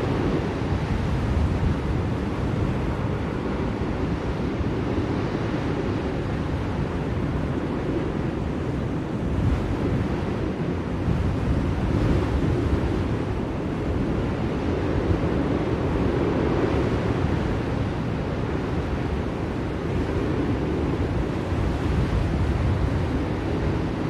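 Blizzard wind blowing steadily, a low rushing noise that slowly swells and eases in gusts.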